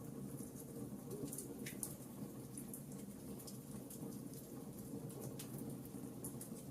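Wood fire in a fireplace crackling: irregular small snaps and pops over a low, steady rumble of burning.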